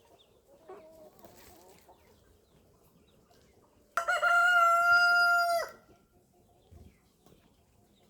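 A rooster crowing once, a loud steady call about a second and a half long that starts about four seconds in and drops off at the end. Faint hen clucking comes before it.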